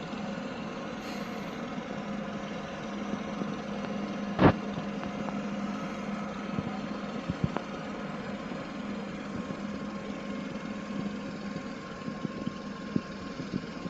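Steady drone of a boat engine running, with one sharp knock about four and a half seconds in and a few fainter clicks near the end.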